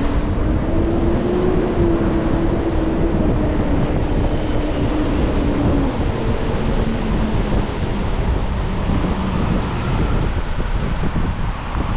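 Car driving on a rain-wet city street: steady road and tyre noise with wind noise on the microphone. A pitched hum rises and then falls away over the first half.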